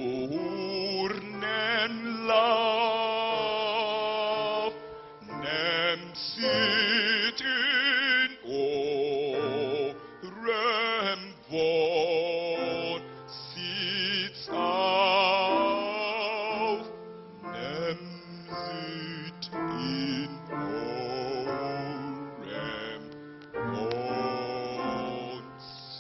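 A solo voice sings long, wordless, wavering phrases with strong vibrato and a few short breaks between them, over low held tones in the accompaniment.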